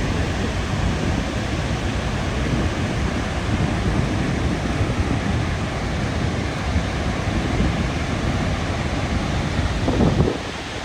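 Steady rushing roar of moving water with wind buffeting the microphone. A louder gust comes about ten seconds in, and then the noise drops off somewhat.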